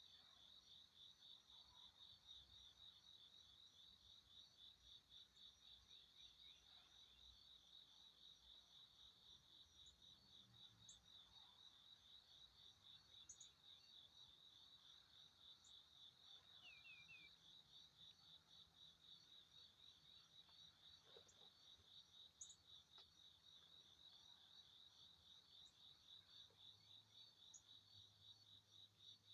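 Faint, steady insect chirping in a rapid, even pulsing rhythm. A few short, faint high bird chirps are scattered through it.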